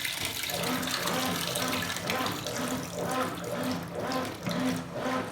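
Consul Super Cargo 8 kg top-loading washing machine (CWL08C) beginning its agitation after filling: the motor hums on each back-and-forth stroke of the agitator, about two strokes a second, with water sloshing in the tub.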